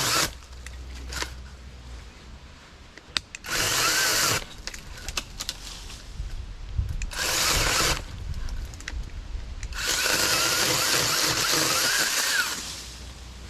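Battery-powered 20-volt mini chainsaw run in several short bursts while cutting a limb, the longest about two and a half seconds near the end. Its motor whine wavers in pitch as it bogs down under load.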